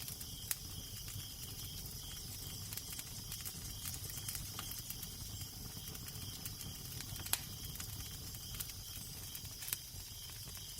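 Wood fire crackling, with irregular snaps and a few louder pops, over a low, steady wind rumble.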